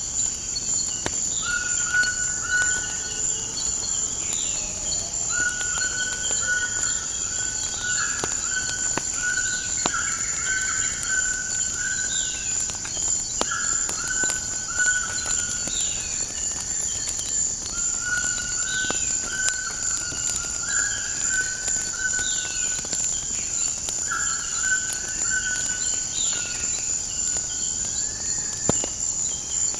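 Nature ambience: a steady high insect drone under birds calling over and over with short level whistles and quick downward chirps. Scattered sharp crackles of a wood fire run through it.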